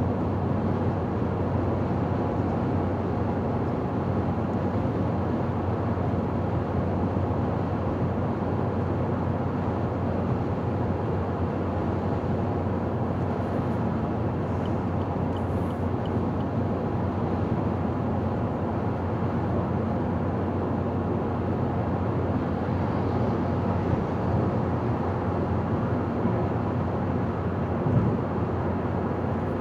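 Car driving at a steady speed on a highway: a constant blend of tyre, road and engine noise, with one brief small knock near the end.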